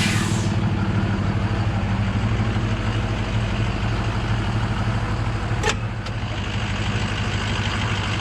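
Truck engine idling steadily. A short sharp noise comes right at the start and another a little past halfway.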